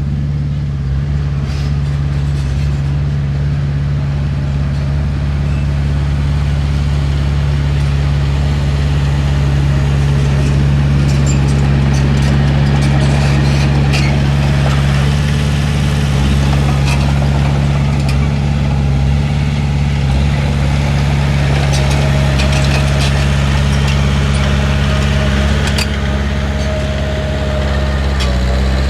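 Heavy earthmoving machine's diesel engine running steadily at an even speed, with scattered metallic clicks and clanks.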